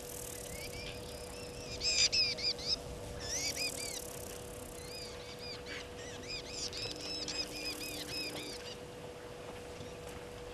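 A bird singing in several quick phrases of repeated rising-and-falling notes, over a faint steady hum.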